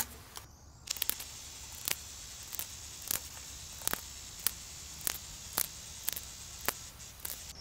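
Scissors snipping a large plastic drinking straw into short pieces: a sharp snip about every half second, somewhat uneven, over a steady hiss.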